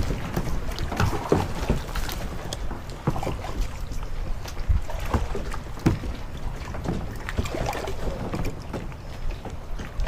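Wind rumbling on the microphone and water moving around a kayak, with scattered short knocks and clicks throughout.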